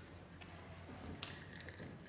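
Faint crunching and clicking of people biting into and chewing crispy fried chicken nuggets, with one sharper click a little past the middle, over a low steady room hum.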